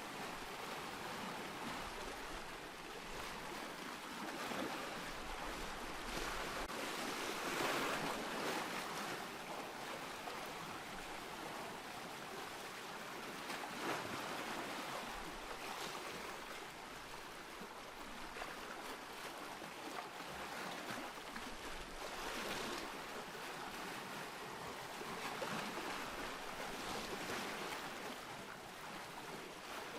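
Ocean surf: waves breaking and washing in one after another, a rushing hiss that swells and fades every few seconds.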